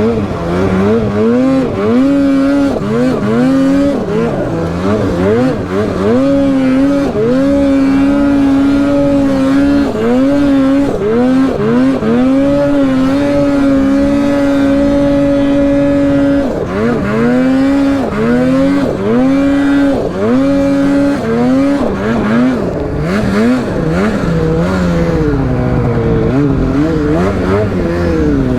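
Polaris Boost turbocharged two-stroke snowmobile engine working hard in deep powder, the throttle blipped over and over so the revs rise and fall about once a second. It is held steady at high revs for a few seconds twice in the middle, then goes back to quick rises and falls.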